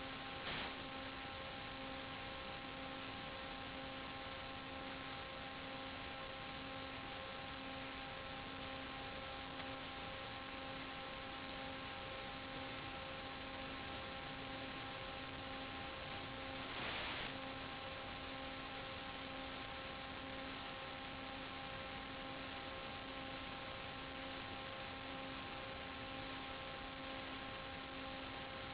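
Steady electrical hum with even overtones over a constant hiss, unchanging throughout, with a brief louder rush of hiss about 17 seconds in.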